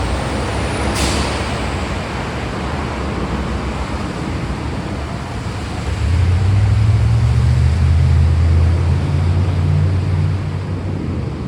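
Steady rain with a low rumble of thunder that swells about six seconds in and dies away near the end; a brief sharp crack about a second in.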